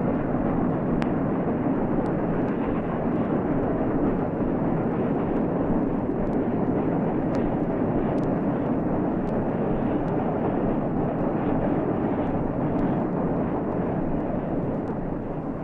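Steam locomotive working at speed, its exhaust and running gear blending into one dense, steady rush of sound that begins to fade near the end. It comes from an old recording whose treble is cut off.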